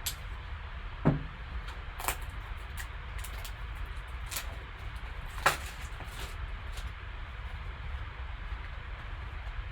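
Hands opening and handling a Panini Black football card box and its packaging: a few scattered knocks, clicks and crinkles over a steady low hum.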